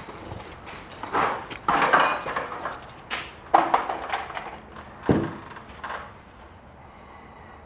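A series of irregular knocks and clatters from hard objects being handled, the loudest about two seconds in and again about three and a half seconds in.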